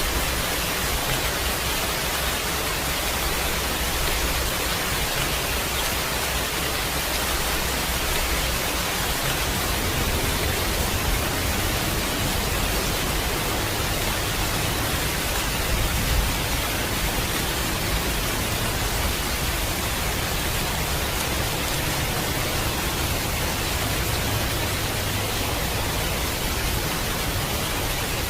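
Heavy rain falling steadily: an even, dense hiss with a low rumble underneath.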